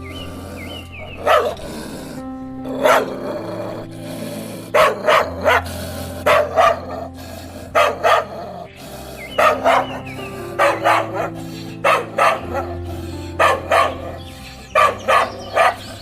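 A dog barking over background music: short, sharp barks in quick groups of two or three, repeating every second or so, above steady sustained notes.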